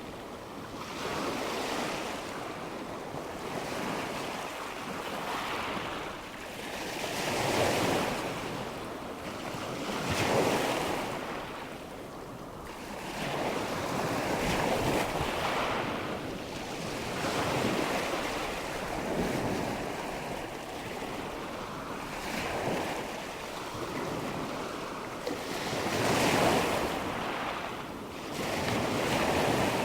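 Nature-sounds recording of water washing and a breeze: a steady rush that swells and fades every few seconds, like waves.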